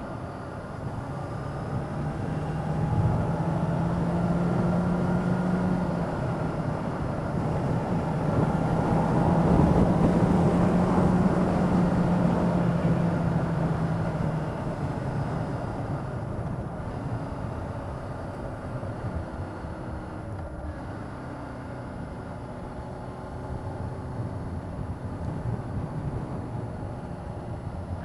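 Motorcycle engine running on the move, with wind and road noise; the engine note rises and falls slowly and swells loudest about ten seconds in.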